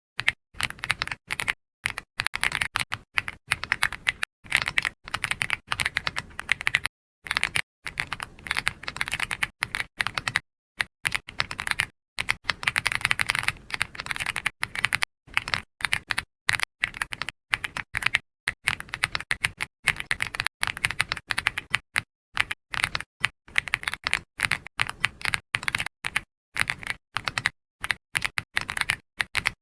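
Computer keyboard being typed on in quick runs of keystrokes, the clicks coming in clusters separated by brief pauses.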